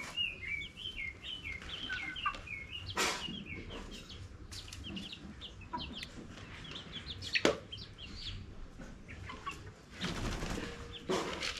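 Chickens: a run of short, high, falling peeps in the first couple of seconds, scattered peeps after that, and a few sudden bursts of wing flapping, the longest near the end.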